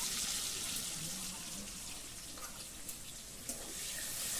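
Potato pieces sizzling as they fry in oil in a kadai, a steady hiss with a couple of faint clicks.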